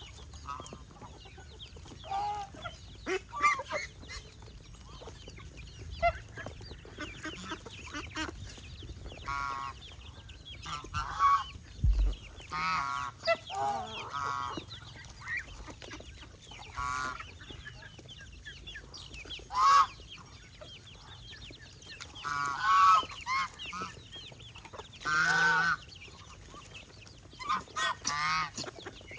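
Domestic geese honking on and off, a run of short calls with one longer honk about twenty-five seconds in.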